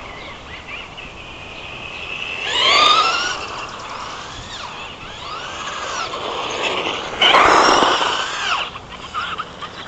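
Traxxas Slash RC truck's electric motor and gear drive whining as it speeds past twice, the pitch rising then falling on each pass; the second pass, about seven seconds in, is louder and longer.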